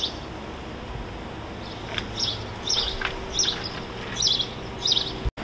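Birds chirping: a string of short, high calls, about six in under three seconds, starting about two seconds in.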